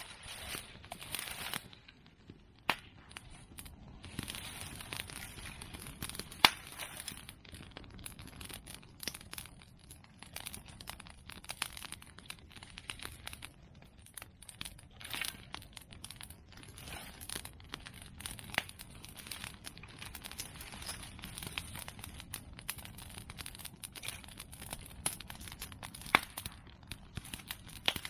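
Open fire of cut medake bamboo and chestnut pruning branches crackling steadily with a dense patter of small clicks. Several sharp pops stand out, the loudest about six seconds in and near the end.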